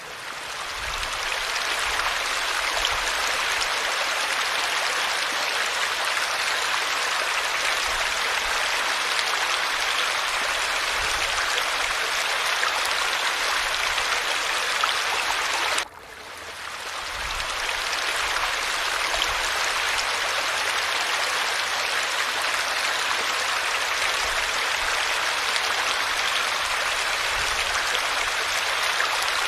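Steady rush of falling water. About sixteen seconds in it cuts out briefly and fades back in over a couple of seconds.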